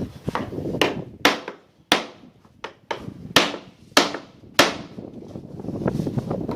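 Carpenter's hammer striking wood: about six sharp blows in a loose rhythm from about a second in, then a few lighter taps.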